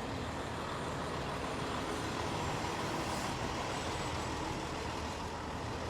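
Steady city street traffic noise: a continuous wash of vehicle engines and tyres with no single event standing out.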